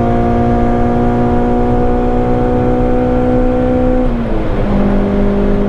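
Honda K24 inline-four engine pulling under acceleration, its revs climbing slowly, then a gear change about four seconds in drops the revs to a lower steady note as it pulls on in sixth gear.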